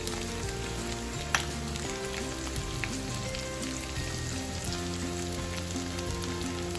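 Diced potatoes and spices frying in hot oil in a kadhai, a steady sizzle with a couple of sharp clicks, under soft background music with sustained low notes.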